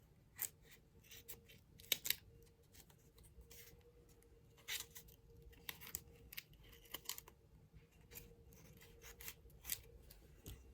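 A mail package being opened by hand: scattered crinkles, snips and tearing of paper and plastic packaging, irregular and quiet, over a faint steady hum from a hoover.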